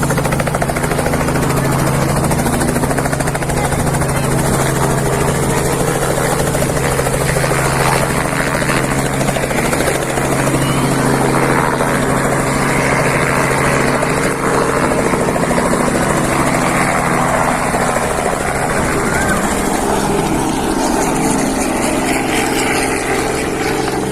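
Helicopter running close by, a loud steady rotor and engine drone with deep pulsing tones; the deepest tones weaken about twenty seconds in.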